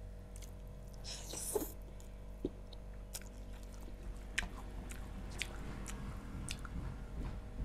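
A person chewing a mouthful of rice and chicken close to a clip-on microphone, with scattered short wet clicks and smacks, over a faint steady hum.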